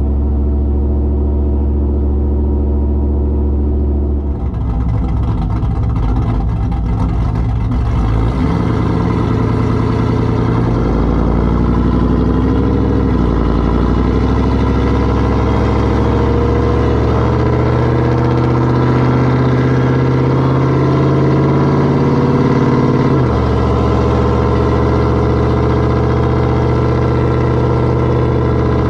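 Modified V8 pickup truck exhaust running, mostly holding a steady note, with several shifts in pitch and a dip and rise partway through.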